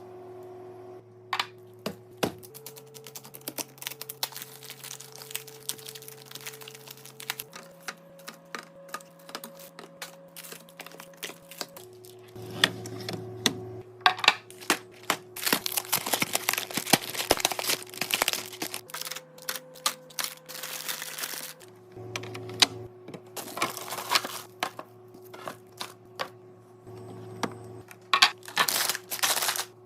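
Soft background music of sustained chords that change every few seconds, over many quick clicks, taps and crinkles of plastic packaging and containers being handled while a fridge is restocked.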